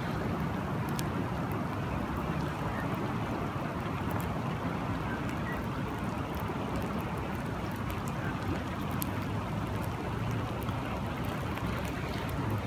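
Steady rain with running river water: an even rushing hiss, with scattered light drop ticks.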